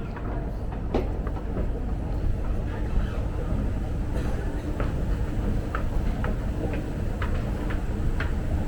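Metro train rumbling low and steadily in an underground station, with scattered sharp clicks over it.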